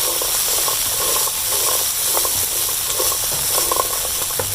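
Chicken breast pieces with pea eggplants and chilies frying in a hot pan, sizzling steadily, with irregular scrapes and taps of stirring.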